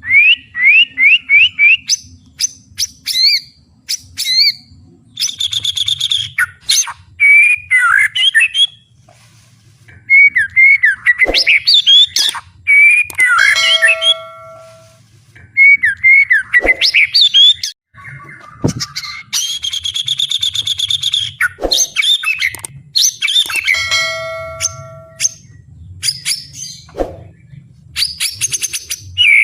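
White-rumped shama (murai batu) singing a loud, varied song with mimicked phrases (isian) worked in. It moves through quick runs of rising whistled notes, buzzy rattling stretches and chattering trills, with brief pauses between phrases.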